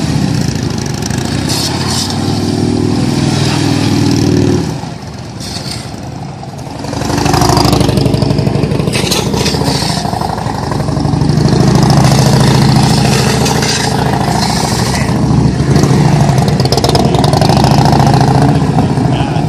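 Harley-Davidson police motorcycles' V-twin engines running and revving at low speed. The engine sound drops away about four and a half seconds in, swells back about two seconds later, and stays loud and steady after that.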